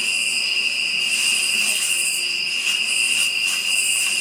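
Night insect chorus of crickets: a steady high-pitched trill with a higher buzzing that swells and fades every second or so.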